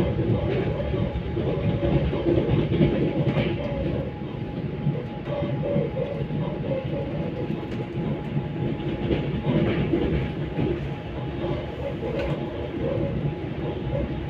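Steady rumble of a moving passenger train heard from inside the carriage, with a faint steady whine and scattered clacks of the wheels over the rails.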